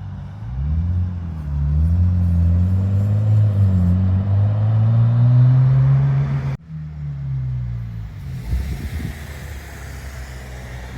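A car engine accelerating, its note climbing steadily in pitch for several seconds. After a sudden cut, an engine note drops in pitch and fades away.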